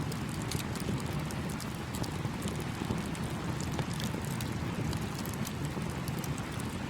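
Campfire crackling, with frequent small sharp pops, over the steady rush of a small stream.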